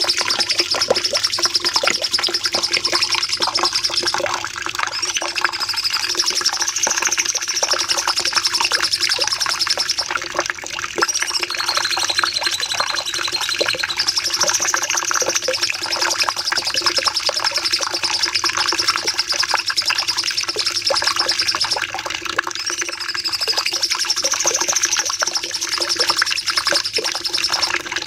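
Cucak cungkok singing a long, unbroken run of rapid trilling song ('nembak panjang'). The high rippling trill wavers up and down in pitch in slow waves every few seconds, with a faint steady hum beneath it.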